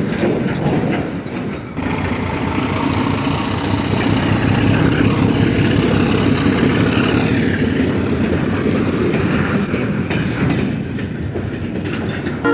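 Diesel locomotive and train moving on the track, a steady rumbling run of engine and wheel noise. The sound changes abruptly about two seconds in, where the footage cuts.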